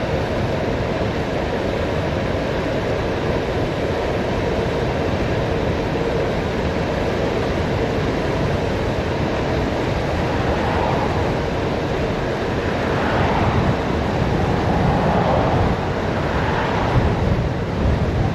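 Wind rushing over the microphone of a bicycle coasting fast downhill, mixed with tyre and road noise, swelling a little in the last few seconds.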